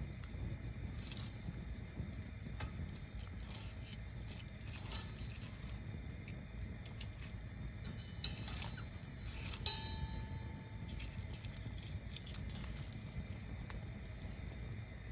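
Wood bonfire burning, with irregular crackles and pops over a steady low rumble; a couple of louder pops and a brief ringing note come about eight to ten seconds in.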